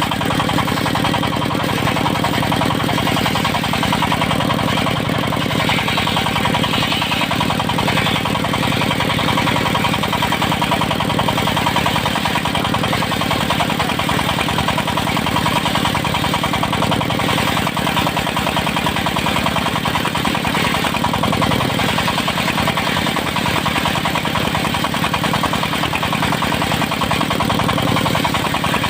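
The engine of a mobile circular sawmill running steadily.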